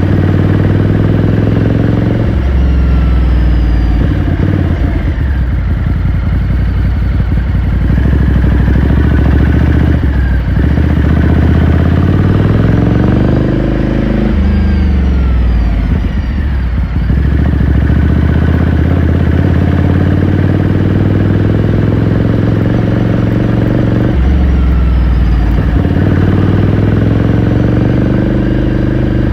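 2018 Ducati Scrambler Sixty2's air-cooled L-twin engine and exhaust heard onboard while riding. The revs rise and fall several times with throttle and gear changes, then hold steady for the last few seconds.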